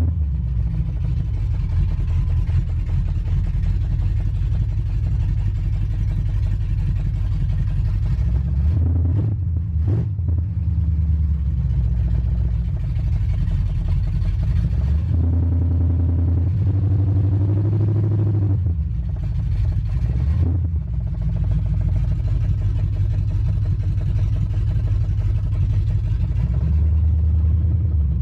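Modified pickup truck's engine driving on a road test, running steadily with a low rumble. About halfway through it revs up with a rising note and then drops back, as if shifting gear.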